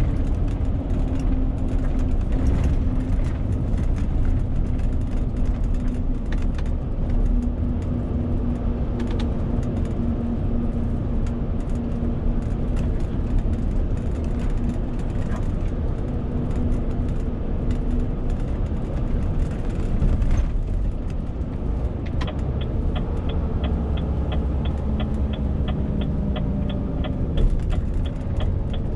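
Inside the cab of a Renault T520 truck loaded to 40 tonnes: the diesel runs under way with a steady low rumble, road noise and a hum that fades out about two-thirds of the way through. A fast, regular ticking starts near the end.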